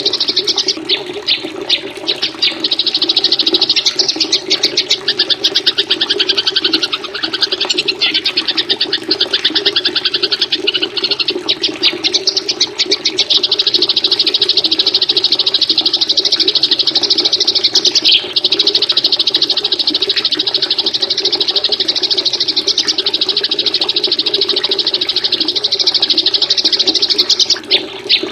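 Songbird recording: a very rapid, high-pitched trilling chatter that runs almost without pause, briefly breaking once midway and again near the end, over a steady lower rushing water sound.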